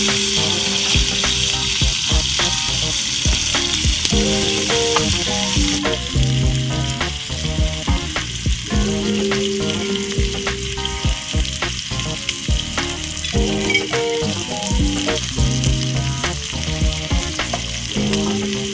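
Food sizzling and frying in a pan over a wood fire, a steady hiss dotted with many small crackles and pops.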